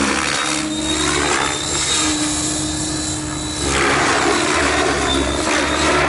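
T-Rex 700 RC helicopter in flight: a steady motor and rotor whine under a rushing wind noise that swells and eases every second or two.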